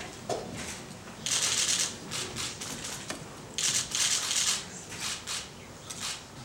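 Camera shutters clicking in rapid bursts, twice: a long run about a second in and another midway, with scattered single clicks between.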